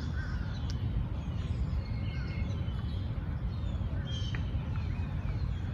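Several birds chirping and calling, in short scattered notes, over a steady low rumble.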